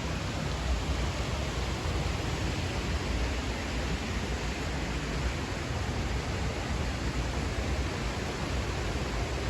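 Steady rush of a rain-swollen stream, an even hiss with a low rumble underneath.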